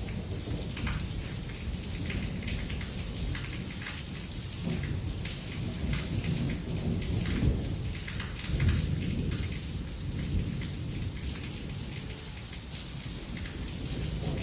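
Heavy thunderstorm rain falling steadily, with scattered sharp drop hits, over a low rumble of thunder that swells a few times.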